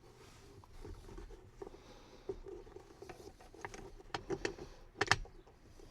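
Scattered light clicks and taps of a hand tool working at the T30 screw behind a car's steering wheel, with a sharper double clack about five seconds in.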